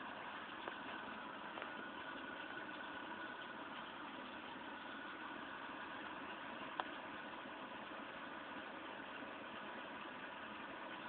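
Steady rain falling, an even hiss, with a few sharp ticks of drips, the loudest about two thirds of the way through.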